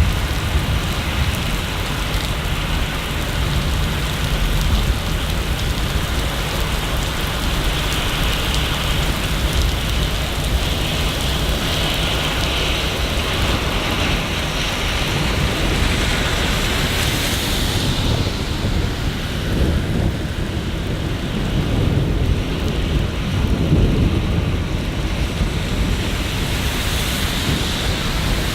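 Steady city rain falling and pattering on surfaces, with low rumbles swelling in about two-thirds of the way through.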